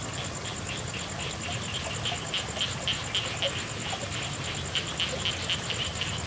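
Frogs calling over steady rain: short, quickly repeated calls at about three or four a second, stronger after about two seconds, over an even hiss of rain, with a high, fast, even pulsing trill throughout.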